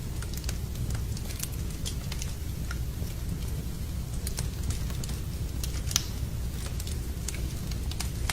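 Wood fire crackling in a fireplace: irregular sharp pops over a steady low rumble, with one louder pop about six seconds in.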